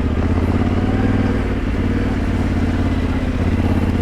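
Yamaha Ténéré 700's parallel-twin engine running steadily under the rider.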